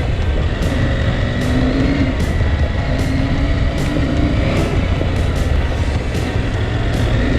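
Motorcycle running while riding along a trail, a steady engine note over heavy low rumble, with scattered short clicks and knocks.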